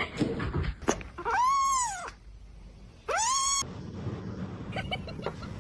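A cat meowing twice, about two seconds apart, each meow rising and then falling in pitch.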